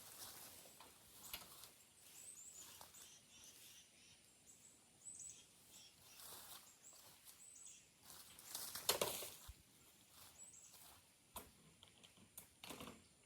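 Small birds chirping faintly in short high calls, over scattered rustling and crunching. The loudest crunch comes about nine seconds in.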